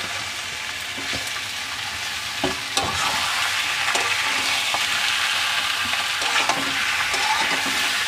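Raw chicken pieces sizzling in hot oil in a kadai with onions and tomatoes. A steel spatula scrapes and knocks against the pan as they are stirred. The sizzle grows louder about three seconds in.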